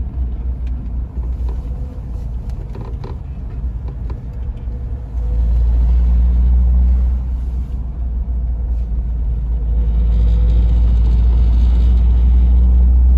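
A car in motion: a steady low rumble that swells louder twice, about five seconds in and again about ten seconds in.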